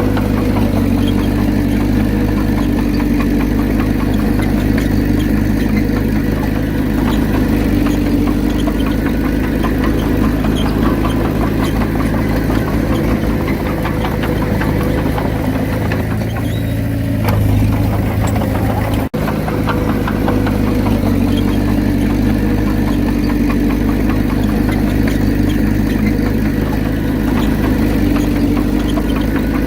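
Komatsu D31P bulldozer's diesel engine running steadily as it works, its note shifting briefly about 17 seconds in; the sound drops out for an instant about 19 seconds in.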